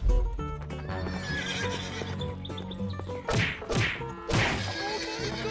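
A horse neighing over steady background music, with three short noisy bursts a little past the middle.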